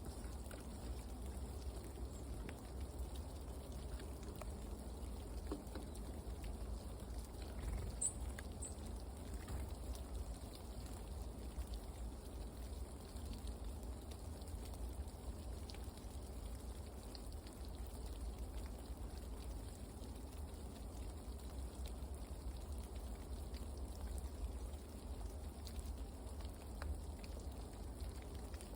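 Steady outdoor background with light pattering like rain and a low rumble. Two brief high-pitched bird chirps about eight seconds in.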